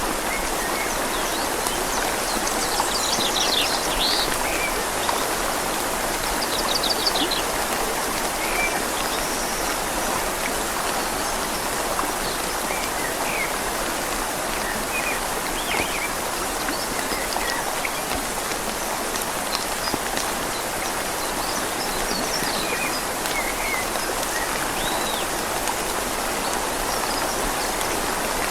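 Steady rain falling on leaves and a flowing river, an even rushing hiss, with birds chirping and trilling now and then, most clearly in the first few seconds.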